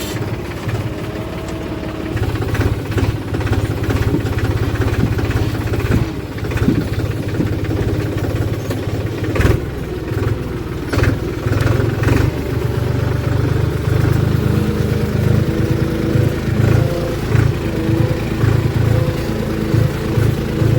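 Diesel engine of a JCB 3DX backhoe loader running while it digs and loads mud, getting louder about two seconds in and rising and easing with the work, with a few sharp knocks.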